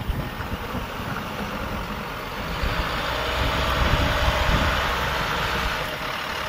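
A truck's engine running, a steady rumble with a noisy haze over it.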